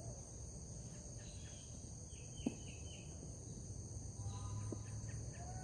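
Steady high-pitched chorus of insects with a quick run of bird chirps, and one sharp click about halfway through. Near the end a cow starts mooing, a low drawn-out call.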